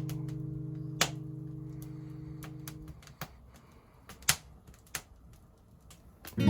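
A sustained guitar chord from the background music fades out over the first three seconds. Sharp, scattered crackles and pops run through it and through the quiet that follows, like burning firewood crackling in a small fire stand.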